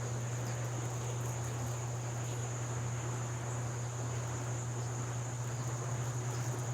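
Insects trilling steadily at a high pitch, over a constant low hum.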